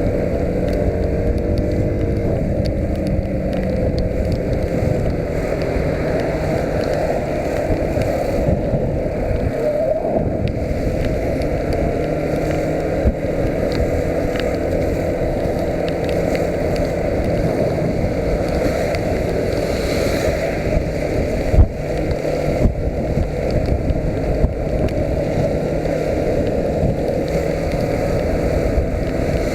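Yamaha YBR125's single-cylinder four-stroke engine running, its pitch shifting during the first few seconds, under a steady rushing noise. A single sharp thump about 21 seconds in.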